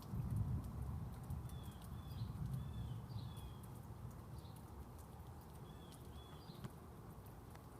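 Low rolling rumble of thunder, loudest in the first second and then fading away. A bird calls in short chirps through the middle, with scattered faint clicks.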